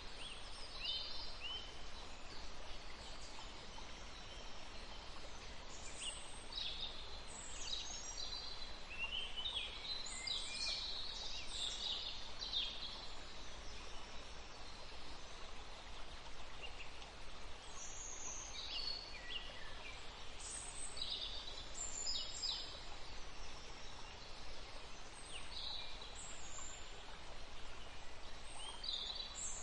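Forest birdsong: several small birds chirping and trilling in short, high phrases, scattered throughout, over a faint steady background hiss.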